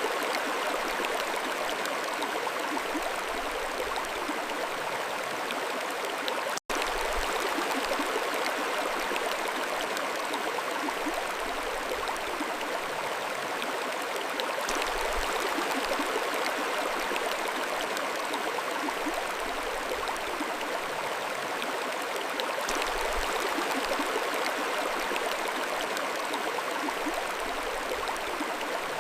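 Mountain stream flowing, a steady even rush of water, with a split-second dropout to silence about seven seconds in.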